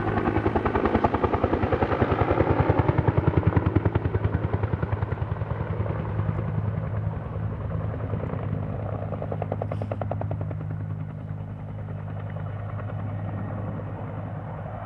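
Helicopter flying past, its rotor blades pulsing fast and evenly over a steady engine drone, loudest in the first few seconds and slowly fading as it moves away. The sound cuts off abruptly at the very end.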